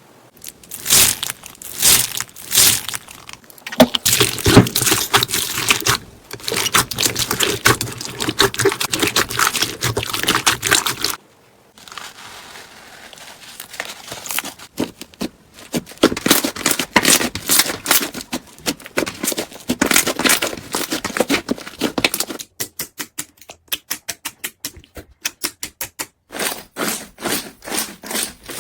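Slime worked by hand, pressed, poked and stretched, giving dense crackling and popping clicks. It comes in several short takes, each cut off abruptly, and toward the end the clicks fall into a fast, even run.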